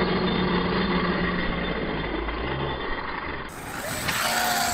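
Arrma Mojave 6S BLX electric RC truck driving off-road: its brushless motor running as the tyres work over loose dirt. The sound changes abruptly about three and a half seconds in.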